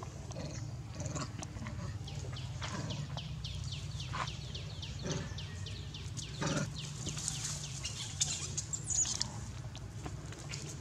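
A bird chirps in a fast run of high, falling notes, about three a second, over a steady low rumble, with a few soft crunches of a macaque biting and chewing fruit.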